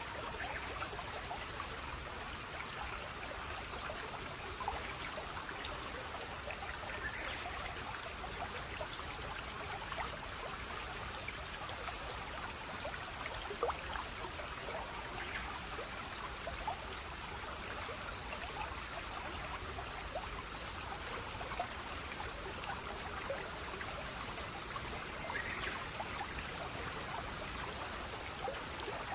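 Steady running water of a small stream, trickling and splashing, with many small drips and plinks scattered throughout.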